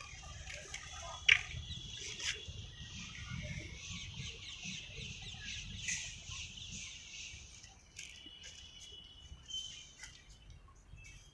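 Many birds chirping and calling together, with a sharp, loud call a little over a second in; the chorus thins out in the last few seconds.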